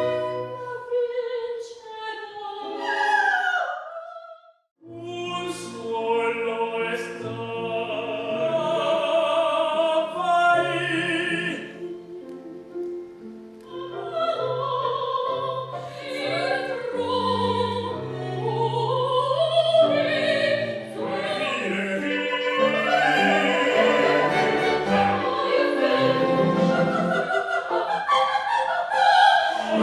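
Operatic singing with orchestral accompaniment, broken once by a brief silence about four and a half seconds in.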